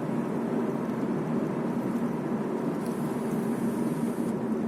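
Steady road and engine noise inside the cabin of a moving Smart car.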